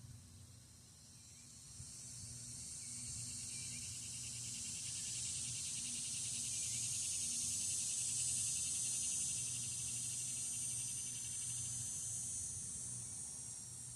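Insects buzzing in a high-pitched drone that swells over several seconds and then slowly eases off, with a faster pulsing trill beneath it.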